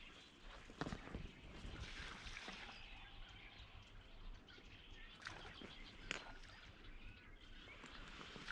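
Faint, distant waterfowl calls scattered over quiet marsh ambience, with a few soft ticks.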